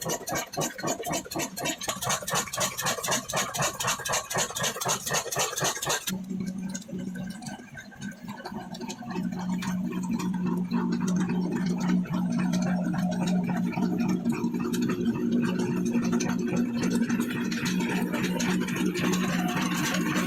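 Old Ruston & Hornsby single-cylinder diesel engine running with a fast, even beat. About six seconds in, the sound changes suddenly to a steady low hum that swells and holds.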